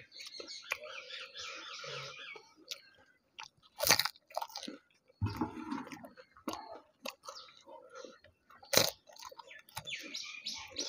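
A person crunching and chewing crisp fuchka (panipuri) shells soaked in spiced water, with two louder sharp cracks about four and nine seconds in.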